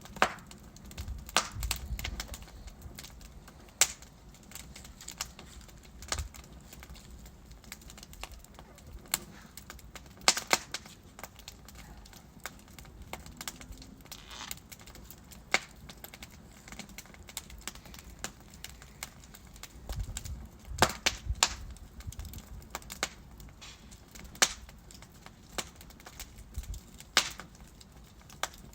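Wood fire burning in a fireplace, crackling with sharp irregular pops and snaps, some in quick clusters, over a low steady rumble of the flames.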